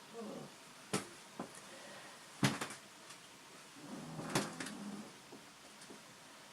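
A few scattered knocks and clicks, the loudest about two and a half seconds in, against a quiet room.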